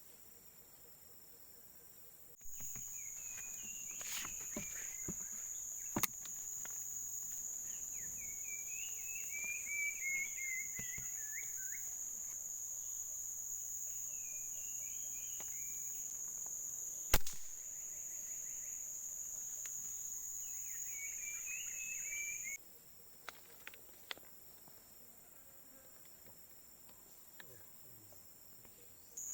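A steady, high-pitched insect drone starts suddenly a couple of seconds in and cuts off abruptly about three-quarters of the way through. Small birds chirp short warbling phrases over it, and a single sharp click stands out about two-thirds of the way in.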